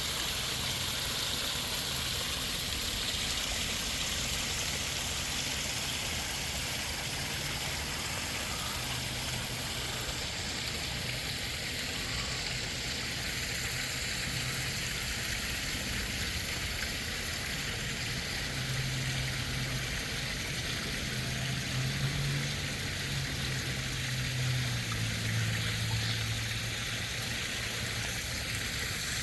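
Steady running water from a koi pond, with a low hum that comes and goes, strongest in the second half.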